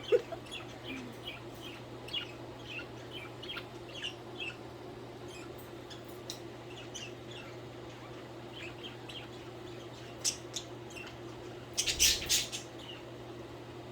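Pet budgerigars chirping: a quick run of short, high chirps, thinning out after about six seconds, then a louder burst of chirps near the end, over a steady low hum.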